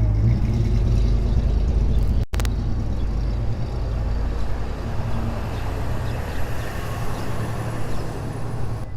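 Car driving: a steady low engine and road rumble, with a brief dropout a little over two seconds in.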